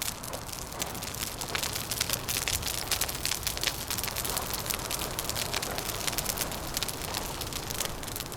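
Wood fire crackling: dense small snaps and pops, several a second, over a steady rush of wind.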